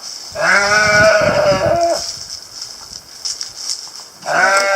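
A male sheep bleating twice: one long bleat of nearly two seconds, then another that starts near the end. A call that can sound like an animal in distress, but the owner says this is how he always sounds and he is not dying.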